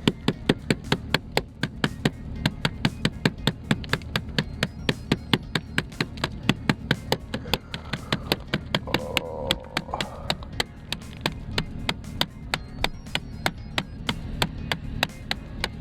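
Flashlight hammering at ice on a frozen car door: a long run of quick, even knocks, about four a second.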